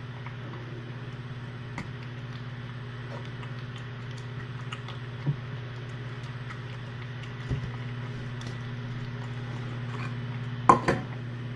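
Scattered light clinks and knocks of dishes being handled, over a steady low hum; a louder double knock near the end.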